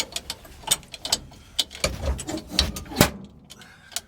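Loose hardware being rummaged and handled: a run of uneven clicks and knocks, the loudest about three seconds in.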